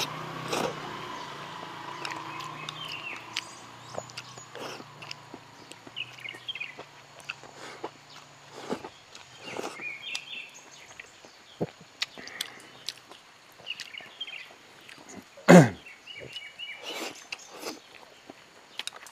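Close-up eating sounds: a person chewing with the mouth full, smacking and working food with many short wet clicks. One loud sharp mouth sound, falling in pitch, comes about three-quarters of the way through.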